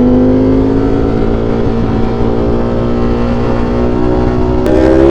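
V4 sport motorcycle engine pulling under acceleration, its pitch rising slowly. Near the end there is a quick upshift, and then the revs climb again.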